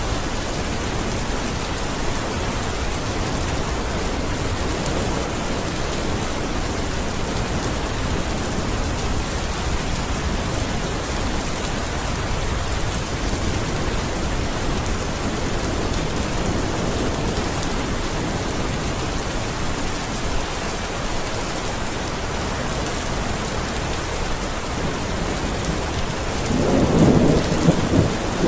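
Steady heavy rain falling in an even hiss, with a louder low rumble of thunder swelling about 26 seconds in.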